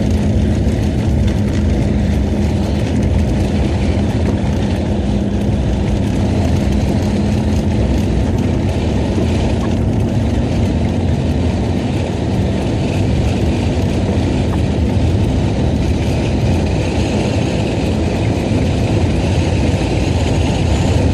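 VAZ classic (Lada) car driving through snow, heard from inside the cabin: a steady low drone of the engine and tyres, with a faint hum that fades out about two-thirds of the way through.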